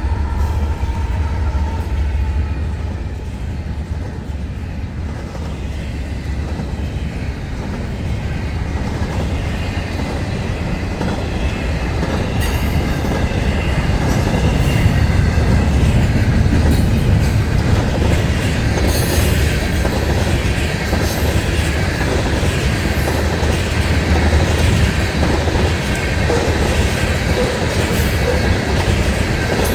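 Florida East Coast freight train rolling past: a steady rumble of the cars with wheels clicking over the rail joints. From about halfway through comes a faint squeal of wheels.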